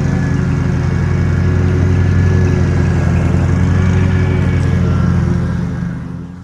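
An engine running steadily close by with a low, even pulse, falling away in the last second.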